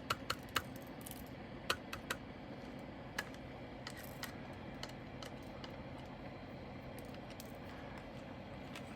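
A few light, sharp clicks and rattles of small plastic bags and containers of diamond painting drills being handled, spread over the first five seconds, then only a low steady background.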